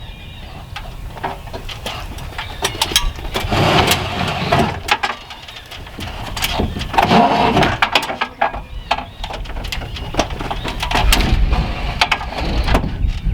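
An engine running and rising in pitch a few times, with scattered knocks and clatter.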